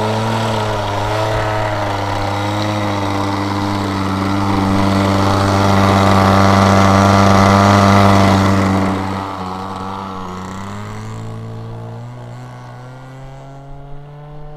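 Engine of a 1/7-scale Top Flite P-51D radio-control model plane running at steady high power. It grows louder to about eight seconds in, then drops in pitch and fades as the plane moves away.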